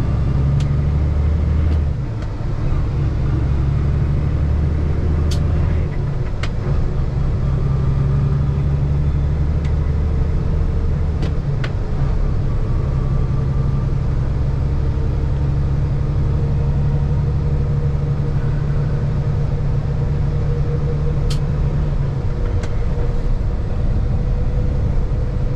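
Paccar MX13 diesel engine and road noise of a Kenworth T680 semi truck heard from inside the cab while driving: a steady low drone that shifts in pitch a few times, with a few faint clicks.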